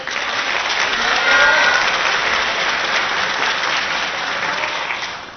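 Crowd of spectators applauding in a hall, with a few faint shouts about a second in; the applause dies away at the end.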